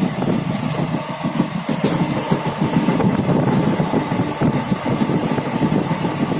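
Passenger train running along the track: a steady rumble with irregular clatter of the wheels over the rails.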